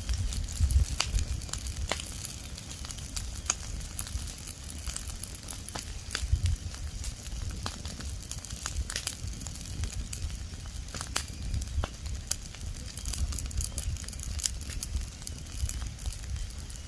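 Fire of dry leaves and branches burning, crackling with many sharp, irregular pops over a low steady rumble.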